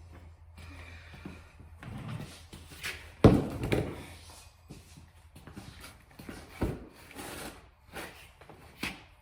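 Irregular knocks and clanks from handling tools and parts at the tractor, with one loud knock about three seconds in and smaller ones after.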